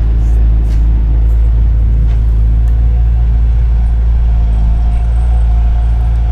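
Bobcat 751 skid steer's diesel engine running steadily with a low drone. A faint higher whine joins about four to five seconds in.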